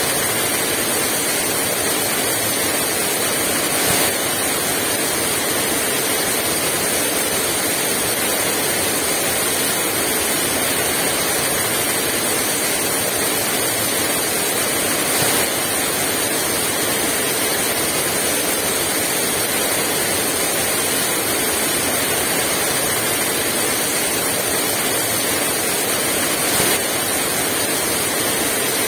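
Heavy rain falling in a steady, dense hiss, with three brief louder moments.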